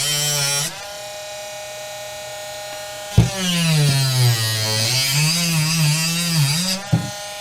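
Dremel rotary tool cutting a popsicle stick. It runs at a steady pitch between cuts, and its pitch sags and wavers as the cut loads it, at the start and again from about three seconds in to near the end. There is a sharp click as the cut begins.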